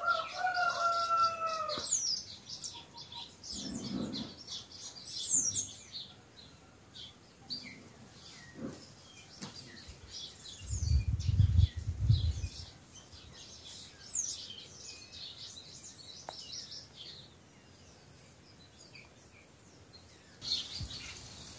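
Wild birds chirping and calling, with quick high chirps and short whistled glides coming thick in the first several seconds and again in the middle. A longer, slightly falling call with an overtone opens the stretch. A low rumble comes around eleven to twelve seconds in.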